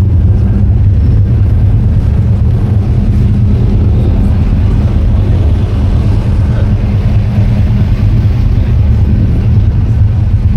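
A car engine running at a steady idle, a loud low rumble that holds even throughout.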